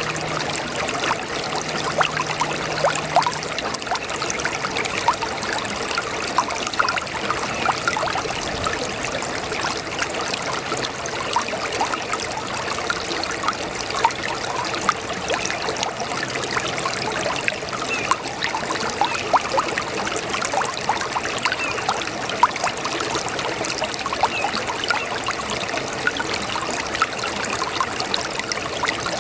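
A brook babbling steadily: a continuous rush of running water broken by many small, irregular trickles and gurgles.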